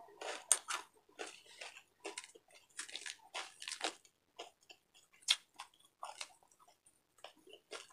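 Close-miked chewing of crispy deep-fried pork belly (bagnet): irregular short crunches and wet mouth clicks, with a sharper crack about five seconds in as the crisp slab is pulled apart by hand.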